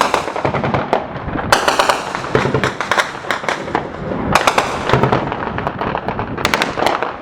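Rapid bursts of gunfire, many shots overlapping, with the heaviest bursts about a second and a half in, midway, and near the end.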